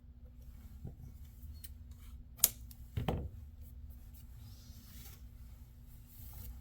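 Light clicks and taps of hands handling small laptop parts and tools, with one sharp click about two and a half seconds in and a duller knock just after. A steady low hum runs underneath.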